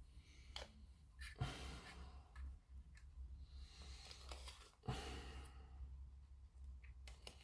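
Quiet bench work: a few light ticks and taps from small parts being handled, and two longer breathy exhales close to the microphone, over a low steady hum.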